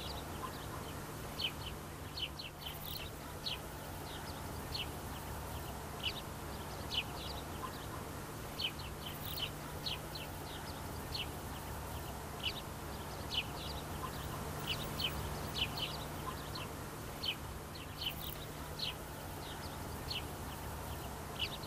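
Small birds chirping outdoors: short high chirps at irregular intervals, over a faint steady low hum.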